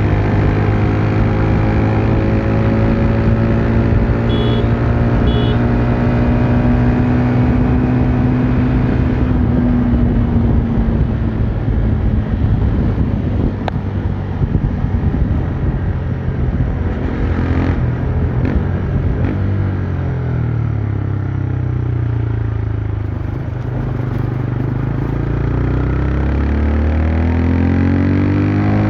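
TVS Raider 125's single-cylinder engine and exhaust running at a steady cruise, with wind rushing over the microphone. About twenty seconds in the revs drop, then climb again in steps as the bike accelerates.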